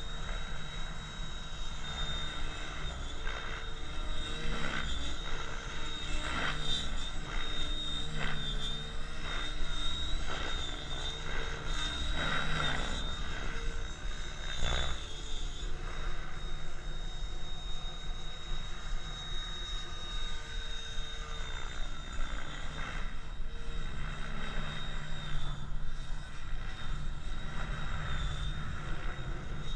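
KDS Innova 700E electric RC helicopter with a SAVOX motor in flight: a high, steady whine that wavers slightly in pitch as the load changes. Underneath is a low, even rumble of wind on the microphone.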